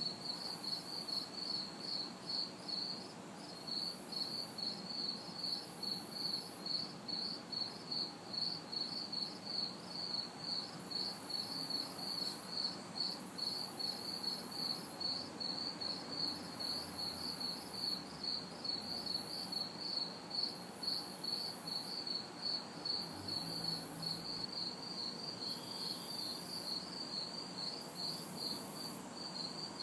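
A chorus of crickets chirping in a steady rhythm, about two to three chirps a second, over a fainter high insect buzz that switches on and off every second or so. Underneath is the low, even hum of distant city traffic.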